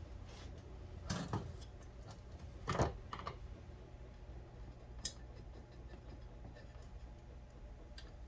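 A few short knocks and clicks over a low steady hum, the loudest a cluster of knocks about three seconds in, with two thin sharp clicks later.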